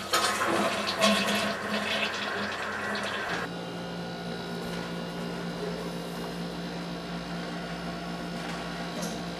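Rushing water: a heavier rush for about three seconds, then a steadier, lower rush with a faint hum underneath.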